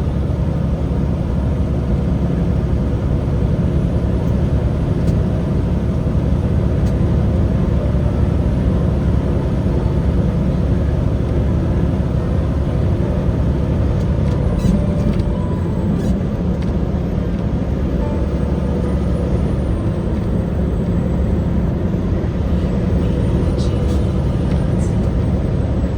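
Truck on the road, its engine and tyre noise making a steady low rumble that holds an even level throughout.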